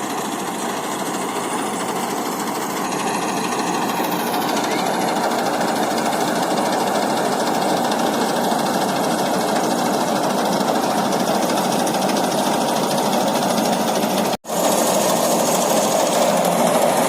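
Volkswagen Kombi engine running with a busy, rapid mechanical clatter, broken by a brief gap about fourteen seconds in, after which it is a little louder.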